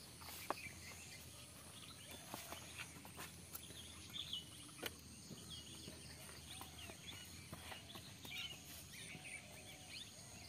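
Faint outdoor background with scattered short bird chirps and a few light clicks.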